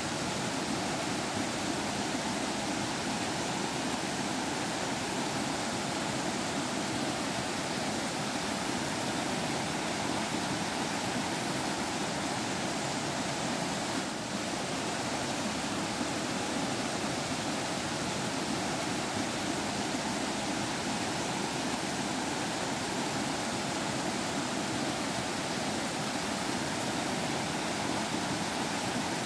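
Forest stream running and babbling, a steady, even rush of water.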